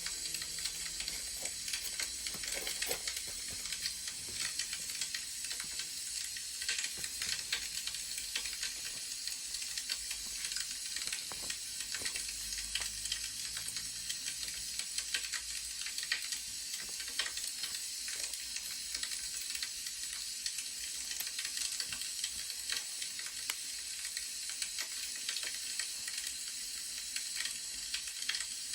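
Wood fire crackling: a steady hiss dotted with many small, sharp pops.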